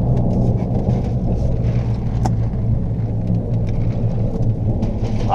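Car interior noise while driving: a steady low engine and road rumble, with scattered light clicks and one sharper tick about two seconds in.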